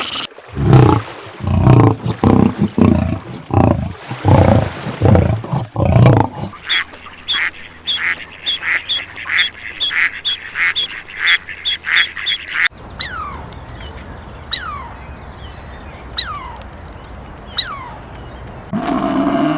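A sequence of animal calls: first a series of loud, low calls in quick pulses, then a fast run of short repeated bird calls, then several falling whistled bird chirps spaced out.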